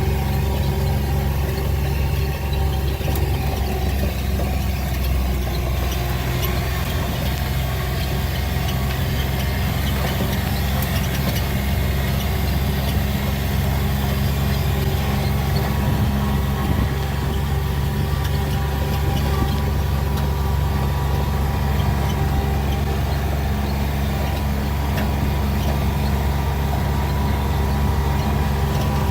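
A vehicle's engine running steadily: an even low drone that does not change in pitch.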